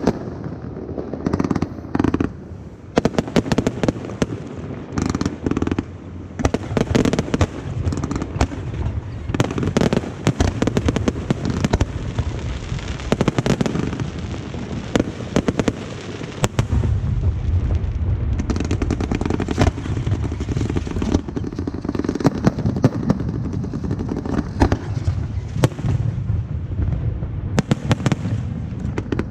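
Aerial fireworks display: rapid, continuous shell bursts with sharp bangs and crackling over a steady rumble.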